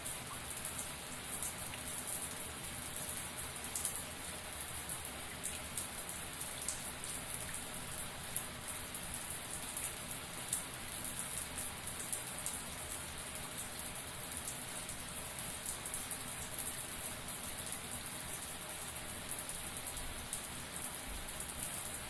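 Shower water running steadily, a dense patter of drops splashing on a hard surface.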